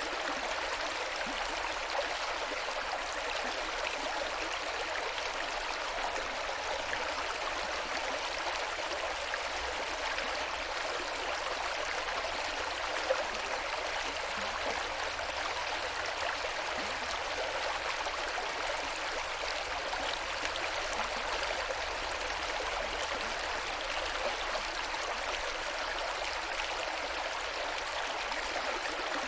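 Steady rush of the West Branch Saranac River flowing, an even, unbroken water noise.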